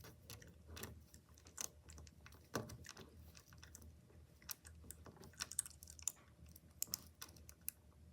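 Faint, irregular clicks and rustles of plastic pony beads and plastic lacing cord being handled and straightened.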